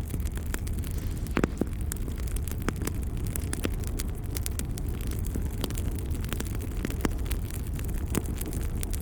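Log fire crackling: irregular sharp pops and snaps over a steady low rumble, with one louder pop about a second and a half in.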